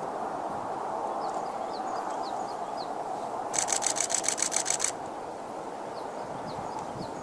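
A camera shutter firing in a rapid burst of about a dozen clicks over about a second and a half, over a steady low rushing noise, with a few short, falling bird chirps.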